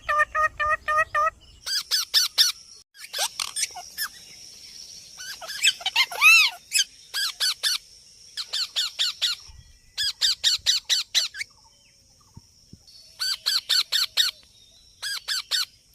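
Pet parrot squawking in quick runs of short, harsh calls, several calls to a run with pauses between. About six seconds in comes one longer call that rises and falls.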